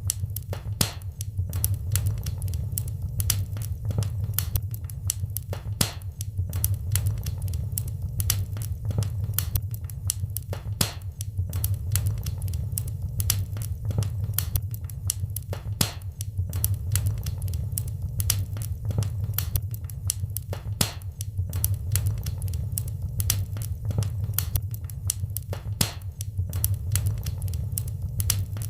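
Wood fire in a fireplace crackling: dense, irregular snaps and pops over a steady low roar of the flames.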